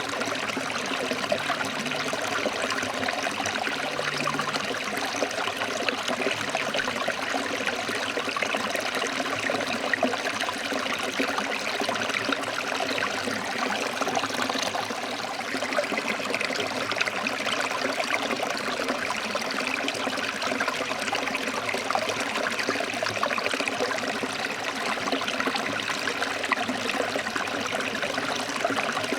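Forest stream flowing over rocks: a steady rush of running water with trickling and splashing.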